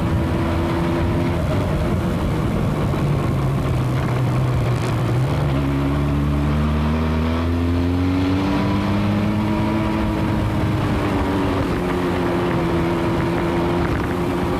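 Motorcycle engine running under way, picked up by a camera mounted on the bike, over steady wind and road noise. The engine note drops in steps twice in the first half, then rises and falls again.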